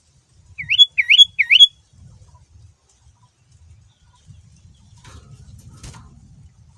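Sooty-headed bulbul (kutilang) calling: three loud, quick rising whistled notes about a second in, over a faint low rumble.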